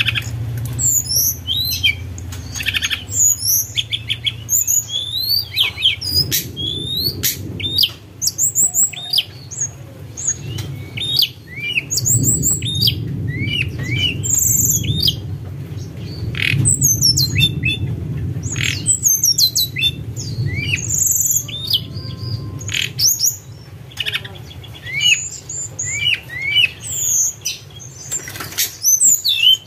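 Tledekan gunung songbird singing a long run of quick, clear whistled notes that glide up and down in pitch, the flute-like 'sulingan' song, over a steady low rumble.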